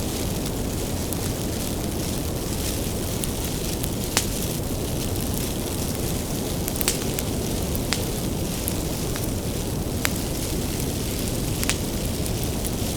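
Wood bonfire burning: a steady low rumble and hiss of flames, with sharp crackles and pops of firewood scattered through it, the loudest about four seconds in.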